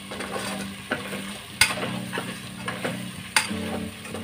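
Chicken pieces sizzling in an aluminium pressure cooker as a spoon stirs them, scraping the pan. Sharp metal clinks of the spoon against the pot come about one and a half seconds in and again about three and a half seconds in. The chicken is almost cooked.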